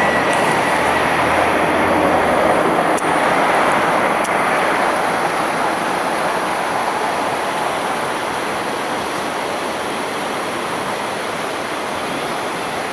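Outdoor plaza fountain water splashing and rushing in a steady wash of noise that eases slightly toward the end.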